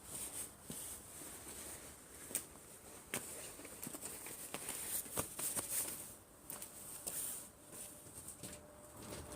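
Rustling with scattered light knocks and clicks of driftwood and kindling being handled while the fire is laid, before it is lit.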